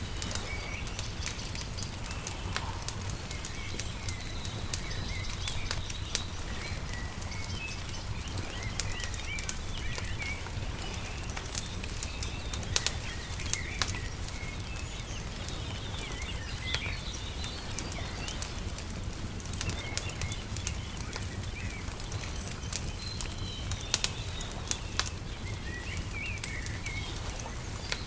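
Small birds chirping and singing on and off, over the scattered snaps and crackles of a wood fire and a steady low rumble.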